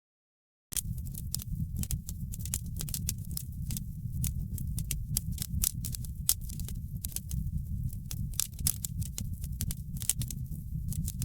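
Wood fire crackling in a fireplace: many irregular sharp pops and snaps over a steady low rumble of the flames. The sound drops out completely for a moment at the very start, then comes straight back.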